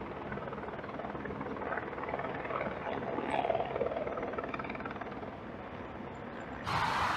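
Steady engine rumble from idling or passing vehicles. Near the end it cuts abruptly to a louder, fuller noise.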